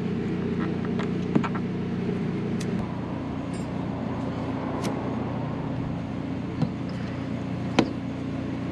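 A car engine idling steadily, with a few sharp clicks and knocks (one about a second in, two near the end) as a speaker is worked out of a car door frame.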